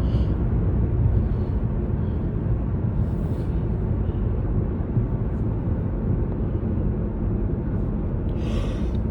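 Steady low road and engine rumble inside a moving car, with a brief hiss about three seconds in and again near the end.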